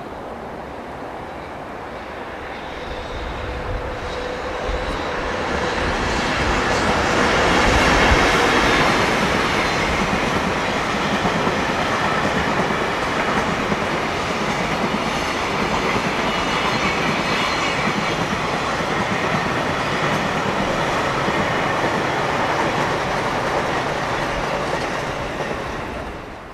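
EH500 electric locomotive hauling a long container freight train past at speed. The noise builds as the locomotive approaches and is loudest as it goes by, then holds steady as the container wagons run past, and drops off sharply near the end.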